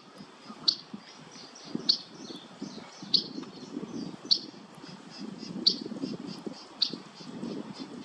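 Bird calling: a short, sharp high note repeated six times at a steady pace of about one every 1.2 seconds, with fainter chirps in between.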